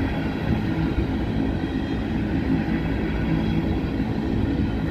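Empty coal train of rotary dump cars rolling slowly past, a steady rumble and rattle of steel wheels on the rails.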